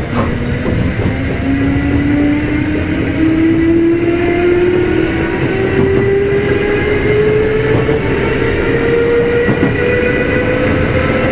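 Kintetsu 2610-series motor car Mo2616 running under power: the traction motor and gear whine climbs steadily in pitch as the train picks up speed, over the rumble of wheels on rail.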